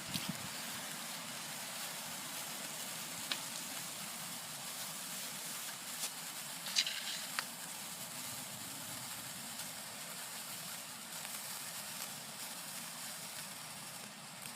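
A steady, faint hiss, with a few small clicks, one about 3 seconds in and a short cluster near 7 seconds.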